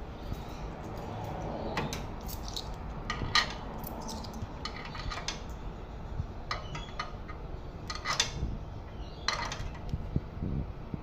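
Coins clinking and clicking as they are fed into a coin-operated laundry machine: irregular sharp metallic clicks over a low steady hum.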